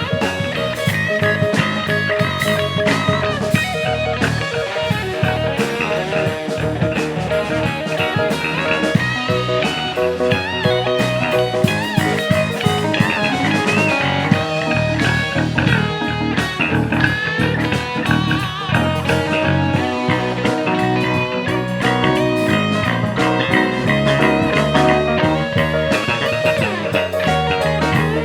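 Instrumental rock jam led by electric guitar, with bass and drums keeping a steady groove.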